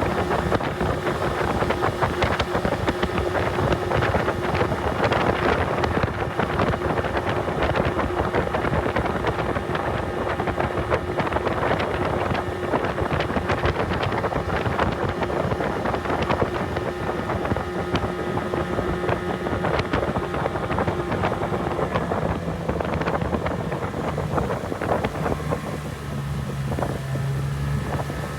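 Mercury 30 hp outboard motor running steadily, driving a small boat, with wind buffeting the microphone. Near the end the engine note drops lower and the level eases slightly.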